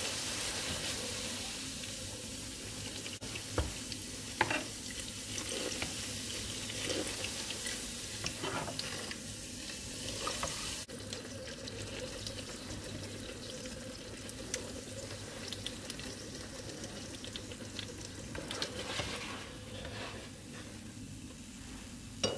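Puri, an unleavened wheat flatbread, deep-frying in hot oil: a steady sizzle as the dough puffs up, with a couple of soft knocks about four seconds in.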